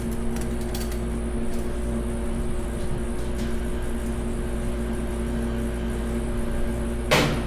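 Steady background hum with a few faint taps, then one short, loud clank about seven seconds in, from parts and hand tools being handled while an engine is stripped down.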